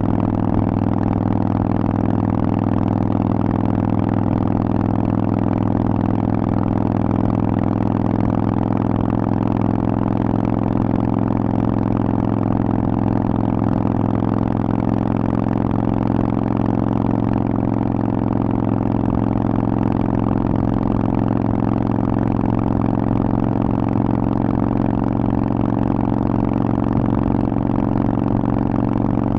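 Harley-Davidson Forty-Eight's air-cooled V-twin running through a Vance & Hines aftermarket exhaust, holding an even engine speed with no revving.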